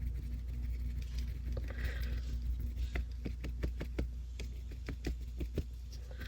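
Paintbrush tapping acrylic paint onto gesso-primed mixed media paper, a run of irregular soft taps a few a second, over a low steady hum.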